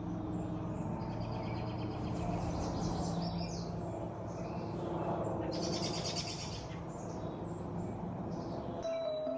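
Wild birds chirping and trilling outdoors over a steady low hum.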